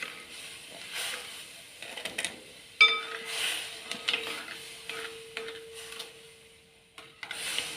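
A ladle stirring milk in a metal uruli, with repeated scraping strokes against the pot. About three seconds in, a sharp knock of the ladle on the pot sets it ringing with a steady tone that carries on.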